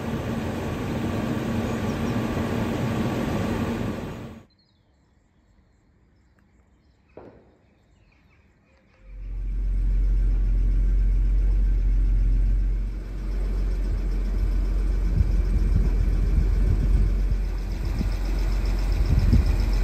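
Car engine, the Jaguar's 4.2-litre straight-six, idling steadily with a deep, even hum that comes in about nine seconds in. Before that there are a few seconds of steady rushing noise with a low hum, then a near-quiet gap with a single click.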